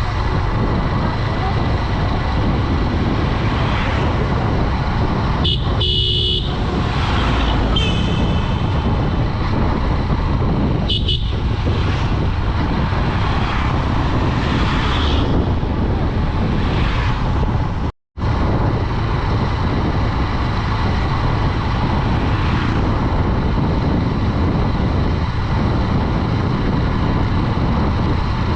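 Steady wind and road noise of riding a Honda Dream 110 motorcycle, broken by three vehicle horn toots, the longest about six seconds in and two shorter ones a couple of seconds and about five seconds later. The sound cuts out completely for a split second past the middle.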